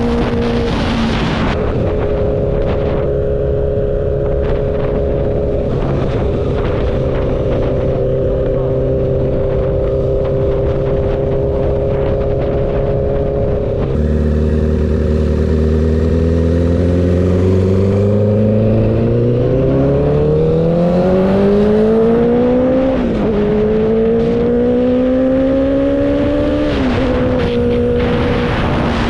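Motorcycle engine running at a steady cruise, then accelerating from about halfway in with its pitch rising, a gear change with a sudden drop in pitch about three-quarters through, rising again and settling back to a steady cruise near the end. Wind rushes across the microphone at the start and near the end.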